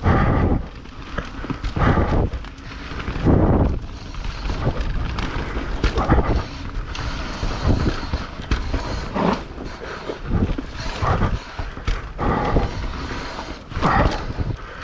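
Mountain bike riding a rough dirt trail: the tyres and bike rattle and knock over bumps every second or two, with wind on the microphone.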